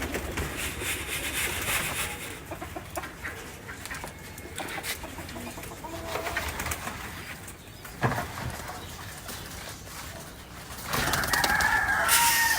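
Pigeons cooing and scuffling with scattered pecks and wing-flaps as they compete over freshly scattered grain. A louder scraping noise comes in near the end.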